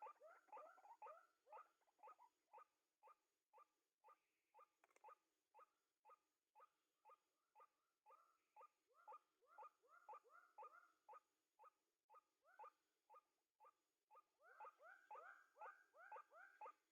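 White-breasted waterhens (ruak-ruak) calling: a fast series of short arched calls, about three a second, with a second bird overlapping in stretches and the calling loudest near the end.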